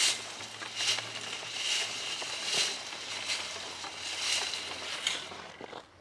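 Wood chips being shaken in a sieve, rustling and pattering in a steady back-and-forth rhythm of about one stroke a second, stopping near the end.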